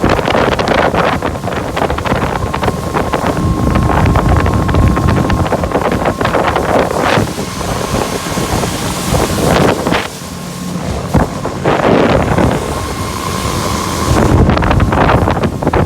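25 hp Mercury four-stroke outboard motor running with the boat under way, largely buried under heavy wind buffeting on the microphone.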